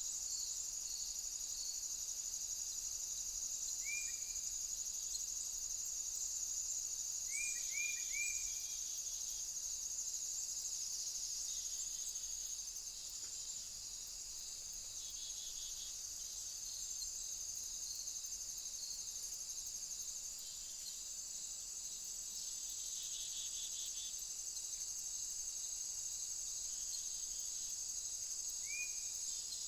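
Steady high-pitched trilling chorus of insects such as crickets. A few short, brief chirps stand out over it: one about four seconds in, three in quick succession around eight seconds, and one near the end.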